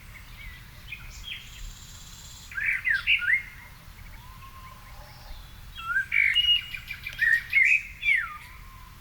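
Songbirds singing: two loud phrases of quick, sliding chirps, a short one about two and a half seconds in and a longer one from about six to eight seconds, over quieter whistles and chirps from other birds.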